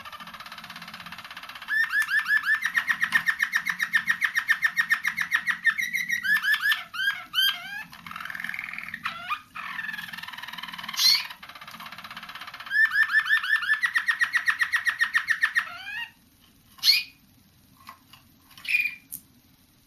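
Young roller canaries singing: a soft warble, then a long run of rapid repeated rolling notes lasting about four seconds, a few separate varied notes, a second rapid rolling run, and a few short calls near the end. The rolling runs are new song passages (tours) that the young birds are still working out.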